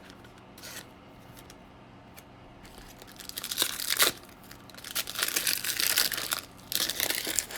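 Foil wrapper of a Bowman baseball card pack being torn open and crinkled: a few quiet seconds, then three spells of crackling rustle in the second half.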